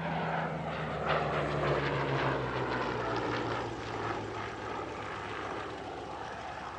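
Hawker Hurricane Mk I's Rolls-Royce Merlin V12 engine and propeller passing overhead. The note is loudest about a second or two in, then the pitch falls and the sound fades as the aircraft moves away.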